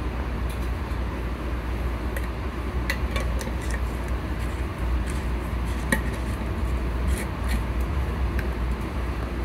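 Steady low rumble of a MARC commuter train car in motion, heard from inside the car, with scattered light clicks and rattles, the sharpest about six seconds in.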